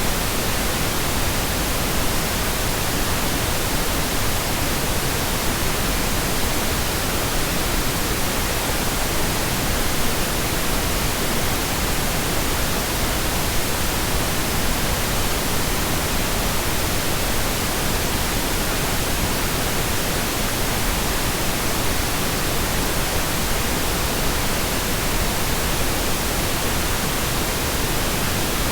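Steady synthetic pink noise: an even, unchanging hiss, fuller in the lows than white noise.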